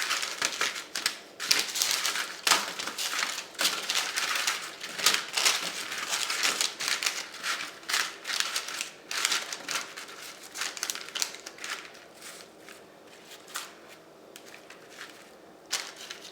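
Chopped vegetables being tossed by hand on a parchment-lined baking sheet: the parchment paper crinkles and the vegetables rustle in irregular bursts. The bursts thin out and get quieter after about eleven seconds.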